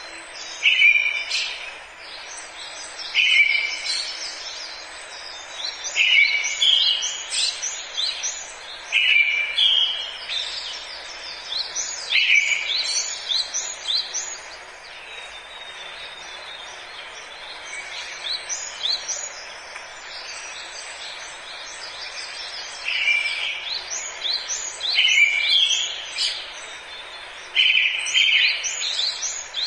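Forest birds singing, one repeating a short phrase about every three seconds: a lower note followed by a quick run of high chirps. The song pauses for several seconds midway, over a steady background hiss of forest ambience.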